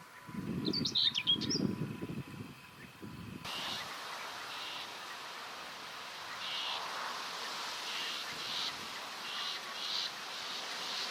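Common whitethroat singing in short, high phrases, repeated roughly once a second over a steady outdoor hiss. In the first few seconds the song sits over low rumbling thumps, which stop at an abrupt cut about a third of the way in.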